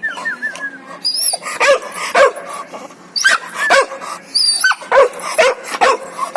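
A dog barking and yipping repeatedly: about a dozen short barks, often in quick pairs, starting about a second in, with a few thin high chirps among them.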